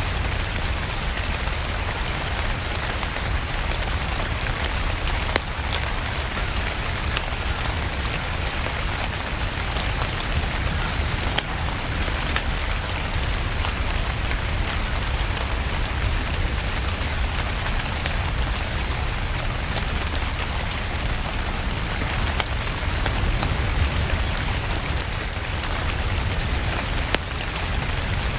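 Steady rain ambience with a low rumble underneath, dotted with scattered sharp crackles from a wood fire in a fireplace.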